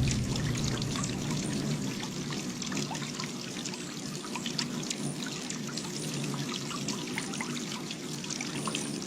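Water trickling and splashing steadily, with many small drips and splashes, over a faint low hum.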